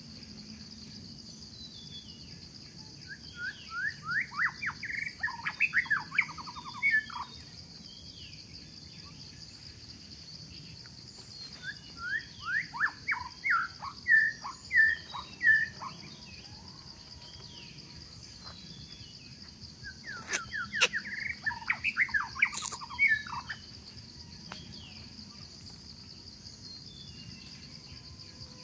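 Songbirds singing in three bursts of quick, rising chirps, a few seconds in, in the middle and again later on, over a steady high-pitched buzz.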